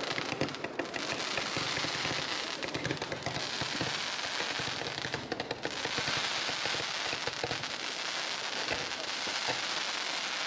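Fireworks display: a dense, unbroken run of many small pops and crackles at a steady level, with no single large bang.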